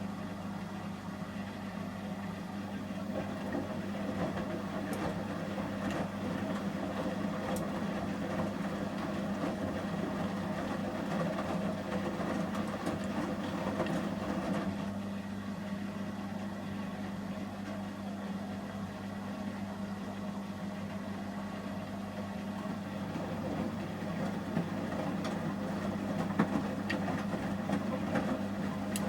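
Samsung Series 5+ washing machine in the heating stage of a 30°C shirts wash: the drum tumbles the wet load with a swishing of water over a steady low hum. The tumbling swells and eases in spells, as the drum turns and rests.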